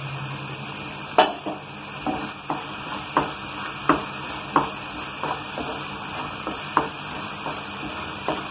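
A spoon stirring a thick mash of ripe plantain and jaggery syrup in a hot pan, knocking against the pan about every two-thirds of a second over a steady sizzle.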